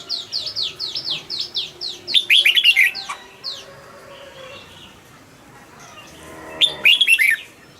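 Red-whiskered bulbuls singing. A quick run of short falling notes, about five a second, lasts for the first three seconds. A loud warbled phrase comes about two seconds in, and another near the end.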